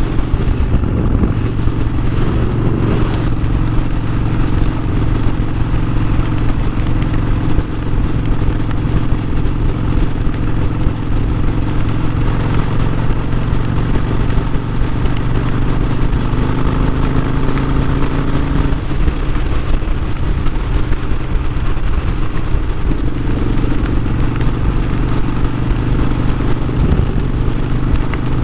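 Harley-Davidson Sportster 1200's air-cooled V-twin engine running steadily while riding, its note shifting a couple of times past the middle.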